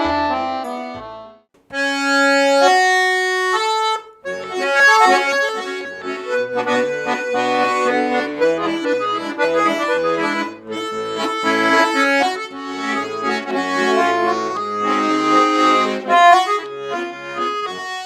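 Garmon (Russian button accordion) playing an instrumental introduction to a song. Held chords die away, there is a brief break, then a few long notes, and from about four seconds in a lively melody runs over rhythmic bass chords.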